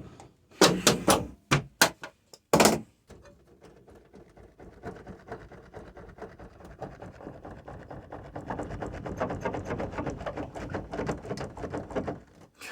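Rear door of a T1N Sprinter van creaking and squeaking in a fast run of ticks, growing louder in the second half. A few loud knocks come in the first couple of seconds.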